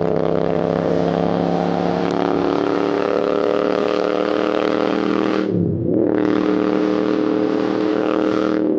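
Royal Enfield Continental GT650's parallel-twin engine, fitted with a Red Rooster aftermarket exhaust, running loud at steady high revs. About five and a half seconds in the revs drop briefly and climb straight back to the same steady note.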